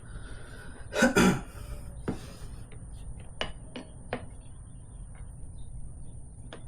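Steel tire irons clicking and clinking against a motorcycle wheel rim as a tire bead is levered on by hand, in a handful of separate sharp knocks. About a second in there is a short, loud grunt of effort.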